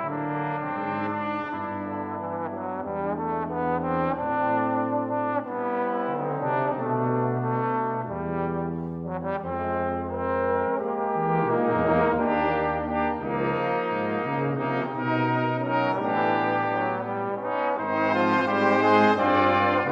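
Brass quintet of two trumpets, French horn, trombone and tuba playing a slow ballad in close harmony over a moving tuba bass line, growing a little louder near the end.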